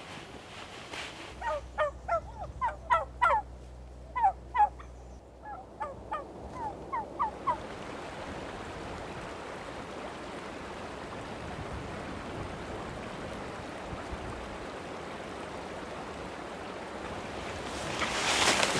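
A large bird calling in three quick series of short, rising notes over the first several seconds, then a steady even hiss.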